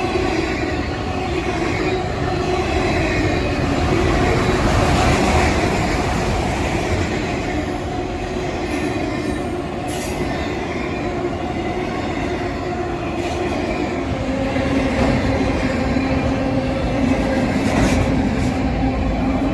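Norfolk Southern freight train rolling past, a stack train with a long block of auto rack cars: steel wheels running steadily on the rails, with some steady squealing tones and occasional sharp clicks over the track.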